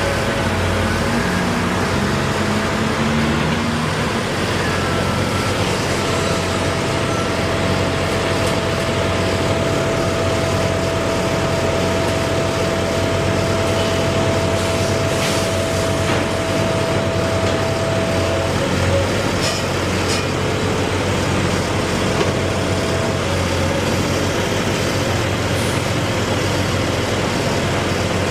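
Steady road traffic with heavy vehicles such as trucks and buses running. A steady whine holds for about twelve seconds in the middle.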